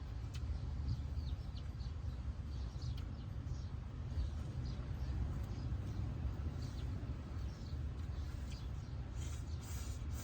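Small birds chirping in short, high, falling calls again and again over a steady low rumble, with a brief hissing rush near the end.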